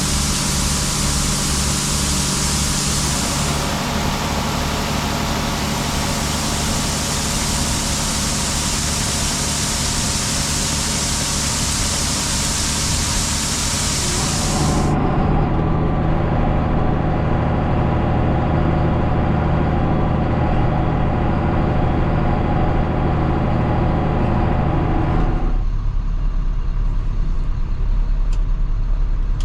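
Heavy diesel farm machinery running steadily under a loud hiss. The sound changes abruptly twice: the high hiss drops away about halfway through, and most of the engine tones stop near the end, leaving a deep rumble.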